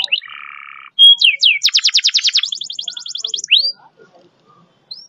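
Domestic canary singing: a short harsh buzzy note, then a clear whistle and down-slurred notes running into a fast roll of about ten notes a second, followed by a faster, higher roll that ends on a rising note. A single short rising chirp comes near the end.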